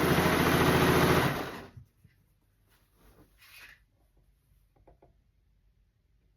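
Electric household sewing machine running at speed with a rapid, even needle beat, then stopping about a second and a half in, followed by a few faint handling rustles and clicks. It is running without forming stitches, which the owner blames on the bobbin (lower) thread not being set.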